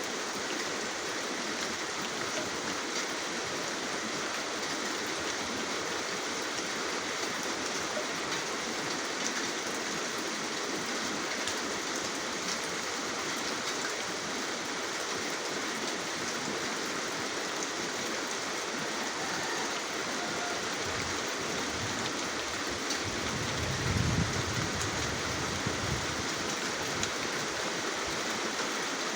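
Steady rain falling, an even hiss of many drops, with a brief low rumble a few seconds before the end.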